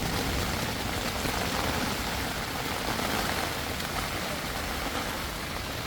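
Heavy rain pouring steadily in a thunderstorm, with a low, gusty rumble of wind.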